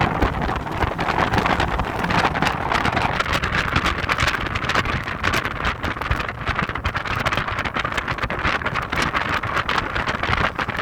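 Heavy wind noise buffeting the microphone of a moving Audi TT, a steady rushing hiss full of crackling gusts, with the car's driving noise underneath.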